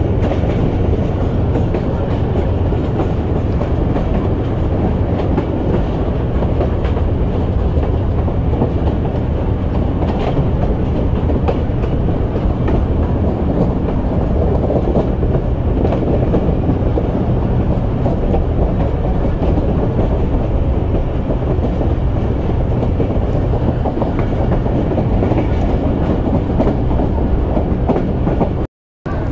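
Moving passenger train heard from an open coach window: a steady rumble of wheels on the rails. The sound cuts out for a moment near the end.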